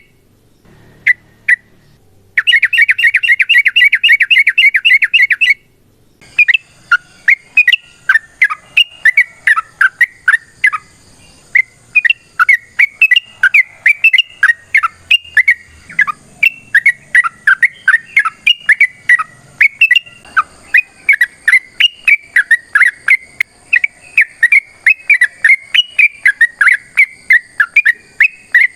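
Yellow-vented bulbul singing in a long, rapid run ("ropel"). A couple of single notes are followed by a fast dense burst of chatter, then after a short gap a long unbroken stream of quick chirping notes.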